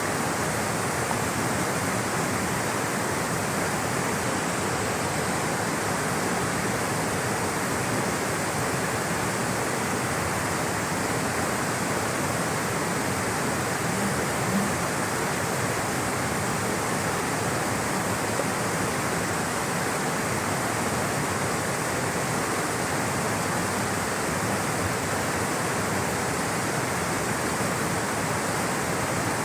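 Rushing water, a steady unbroken roar of flowing water with most of its energy low and mid-range.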